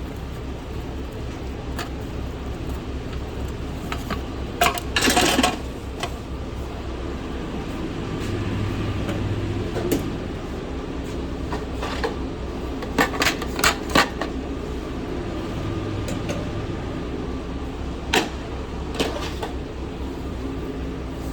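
Steady hum of fast-food kitchen equipment, with scattered sharp clicks and clatters of handling. There is a short rattling burst about five seconds in and three quick knocks close together about halfway through.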